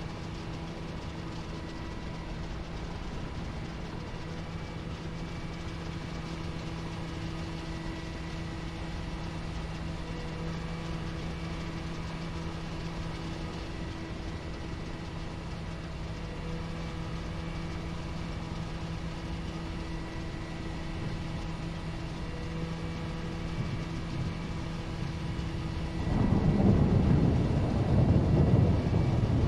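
Twin radial piston engines of a DC-3 running at a steady drone, heard from inside the aircraft. About 26 s in, a much louder rough rumble sets in and covers the drone.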